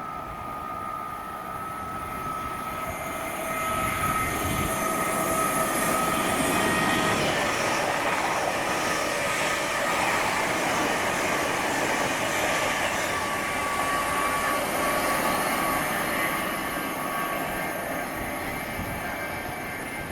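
A train passing through the station: a steady rushing noise with a thin whine over it, building over the first few seconds, holding, and easing off near the end.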